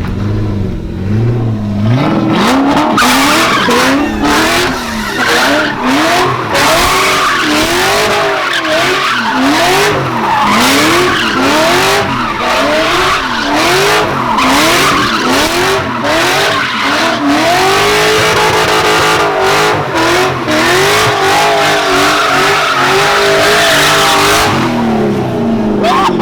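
Car engine revving hard, its pitch rising and falling about once a second, over tyres squealing and skidding, as in a burnout or donuts. It starts with a lower steady engine note and eases off near the end.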